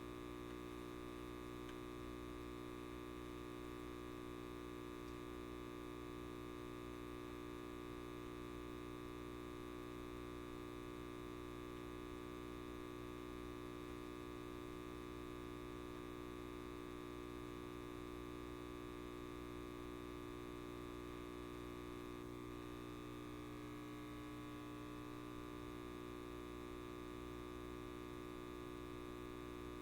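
Light bulb buzzing: a steady electrical mains hum with many fixed overtones, unchanging throughout.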